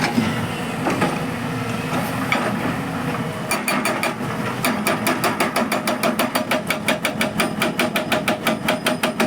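Dozco hydraulic rock breaker on an excavator hammering stone, over the excavator's running engine. About three and a half seconds in, the breaker settles into a fast, even rhythm of about eight blows a second.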